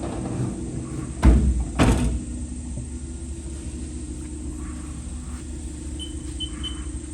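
Sliding door of a Haas TL-1 CNC lathe being slid shut, two sharp knocks about a second apart, over the machine's steady low hum. Near the end come a few short high beeps.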